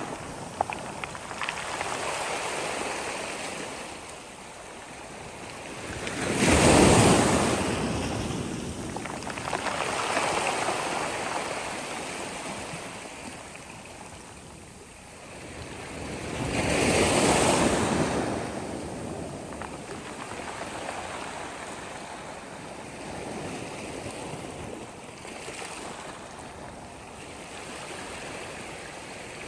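Sea waves breaking and washing on a beach. The two biggest break about 7 and 17 seconds in, with smaller ones between.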